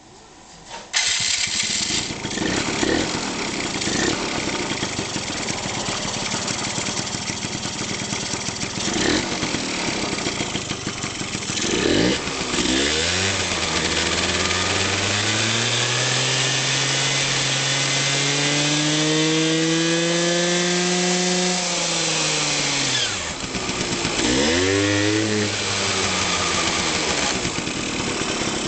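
Yamaha 1YT Excel 14T engine catching on start and running. About halfway through it is slowly revved up and then drops back. A shorter rev and drop follows near the end.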